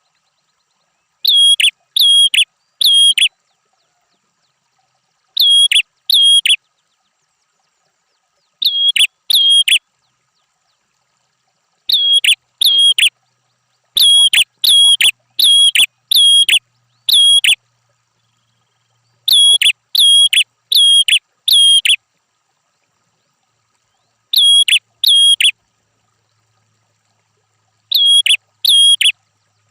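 Prenjak (prinia) calling: loud, sharp chirping notes repeated in bursts of two to five, each note about a third of a second long, with dead silence between the bursts.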